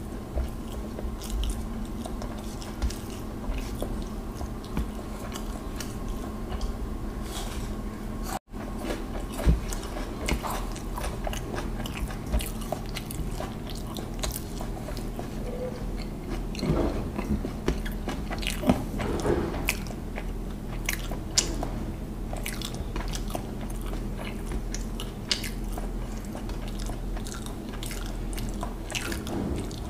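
Close-miked chewing and mouth sounds of a person eating rice and fish with his hands, with many small wet clicks and smacks over a steady low hum. There is a momentary dropout about eight seconds in.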